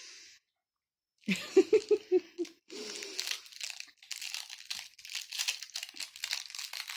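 A short giggle about a second in, then a sweet wrapper crinkling and tearing for several seconds as a sweet is unwrapped.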